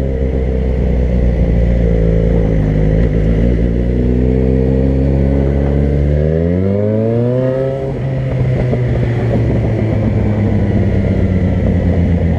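Vehicle engine running under way. It holds a steady pitch, then rises in pitch as it speeds up over a few seconds, and drops back to a lower steady running note about eight seconds in, like a gear change.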